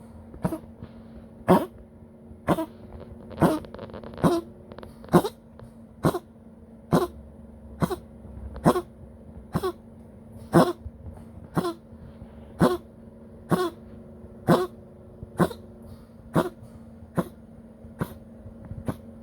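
A poodle coughing hard and over and over after breathing oxygen: about one harsh cough a second, some coming in quick doubles.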